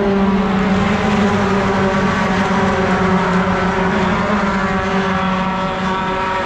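Racing pickup truck's engine heard from on board, held at high revs with a steady note that sags slightly in pitch.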